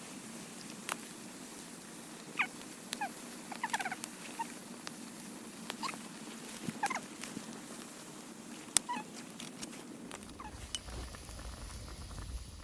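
Sukiyaki simmering in a Turk iron frying pan over a campfire: small squeaky bubbling chirps and sharp pops and crackles over a steady low hiss.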